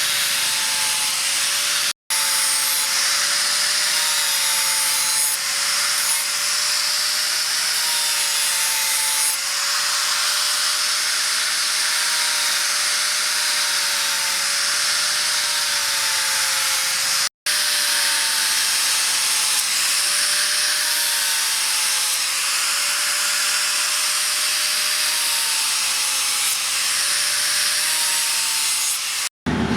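Electric sanding tool running steadily against a workpiece, a continuous gritty hiss over a wavering motor whine. The sound breaks off sharply twice, where clips are joined.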